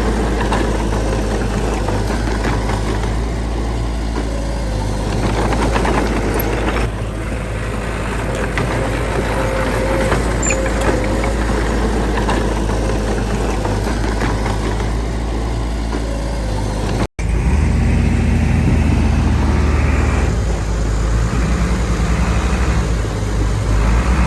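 Heavy diesel earthmoving machinery running steadily. The sound cuts out for an instant about 17 seconds in, then resumes a little louder with a heavier low rumble.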